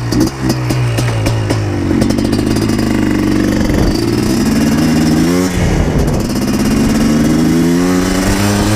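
Yamaha Blaster 200's two-stroke single-cylinder engine comes in suddenly and runs loud as the quad pulls away, its pitch rising and falling several times with throttle and gear changes.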